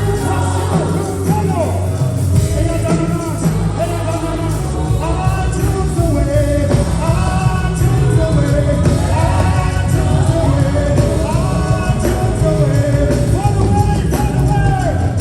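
Live gospel worship music: a lead voice singing a melodic line over a full band with steady low bass.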